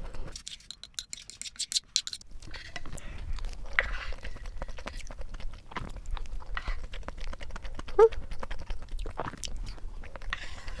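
Chewing and eating sounds of mapo tofu rice, with a wooden spoon clicking and scraping on a wooden plate. A brief pitched squeak about eight seconds in.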